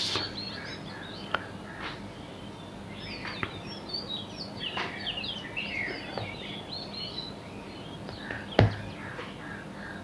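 Small birds chirping and twittering, many short high calls overlapping through the middle of the stretch, over a faint steady hiss. A single sharp knock about eight and a half seconds in.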